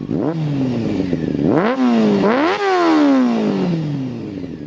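Benelli TNT 300's parallel-twin engine being revved: the pitch climbs and drops back three times, the last rev falling slowly back toward idle.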